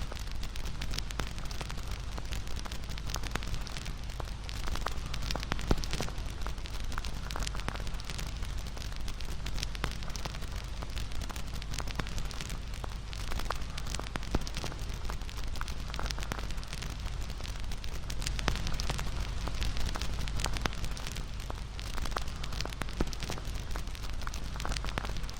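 Campfire crackling: irregular sharp pops and snaps of burning wood over the steady low sound of the flames.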